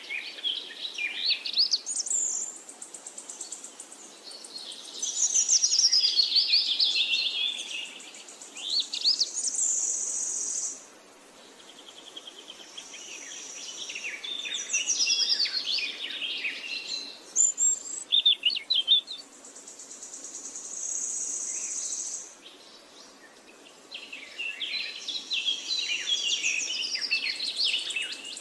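Parakeets chirping and warbling in quick, busy bursts of rising and falling high notes, broken by a few short lulls, with a steady high buzz coming and going between them.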